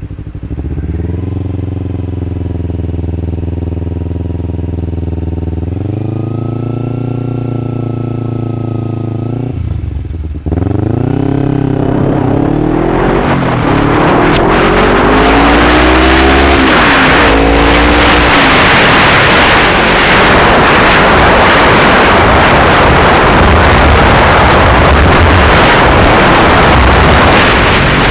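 Kawasaki Ninja 250R's parallel-twin engine running steady, its pitch stepping up about six seconds in. About ten seconds in the revs drop and then climb several times in a row, as through upshifts, while wind noise on the microphone builds and covers the engine for the rest of the time.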